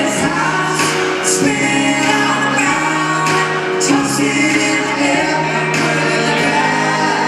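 Live country band performance with male and female voices singing together in harmony over sustained instrumental backing, punctuated by a few sharp drum strikes.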